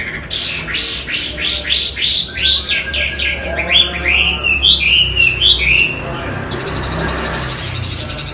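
Chinese hwamei (wambi) singing. It gives a fast run of about ten repeated sweeping whistles, then higher, varied warbled phrases, and near the end a harsh buzzy trill.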